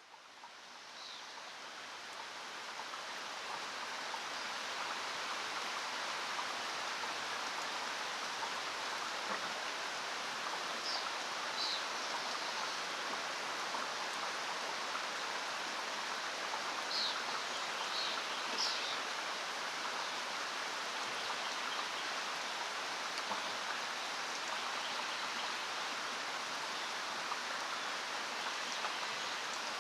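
Steady rain falling, an even hiss that fades in over the first few seconds and then holds level. A few brief high chirps sound about a third of the way in and again past the middle.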